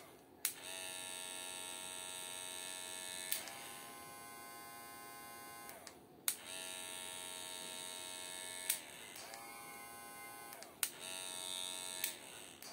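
Cordless electric hair clipper running with a high, buzzing motor whine, switched on and off several times with sharp clicks of its switch; the pitch sags each time the motor winds down.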